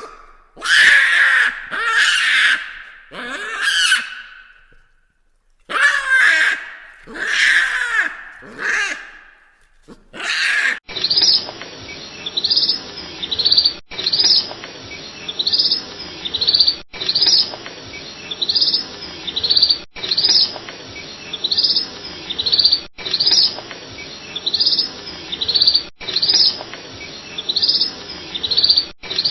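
Animal calls: about ten seconds of loud separate cries. Then a looped recording of bird chirps, short high chirps in groups of three that repeat every three seconds.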